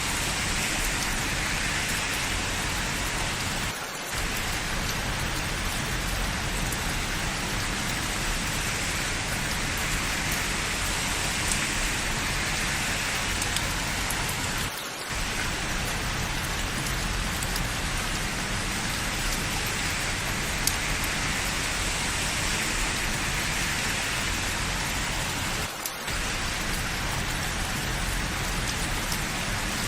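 Steady rain falling, an even dense hiss of drops on hard surfaces, with brief dips in level about every eleven seconds.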